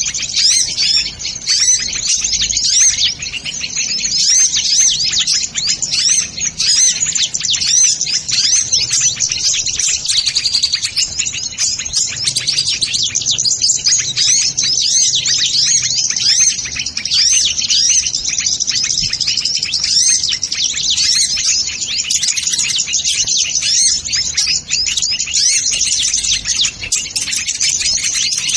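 Dense, unbroken high-pitched chirping and twittering of sunbirds, many quick calls overlapping without a pause.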